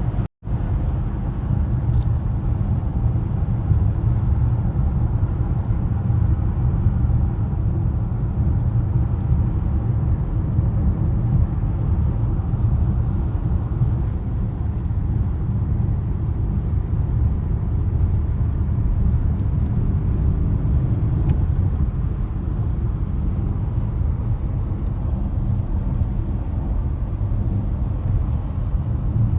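2020 BMW X5 (G05) SUV driving at a steady cruise: an even low rumble of engine and road noise. The sound cuts out for a split second just after the start.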